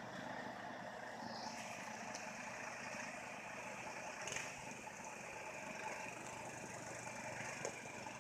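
Faint, steady running of a truck engine, without revving.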